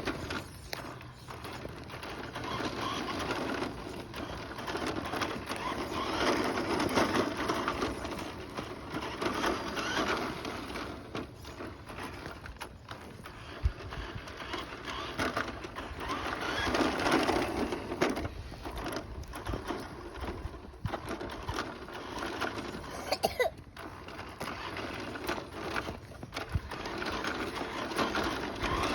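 Kids' electric ride-on mini car driving along, its small motor whirring and plastic wheels rolling over pavement, the sound swelling and fading as it goes, with a few sharp knocks.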